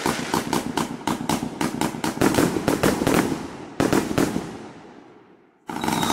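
A 100-shot mixed-tube fireworks cake firing: a rapid string of sharp pops and crackles from bursting shells, with a cluster of loud bangs about four seconds in. The sound then dies away, and a new shot goes off just before the end.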